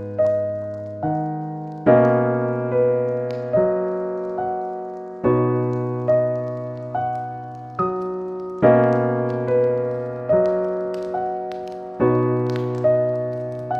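Slow, gentle piano music: soft chords struck about every second and a half to two seconds, each ringing out and fading before the next. A few faint crackles, typical of a log fire, sit under the music.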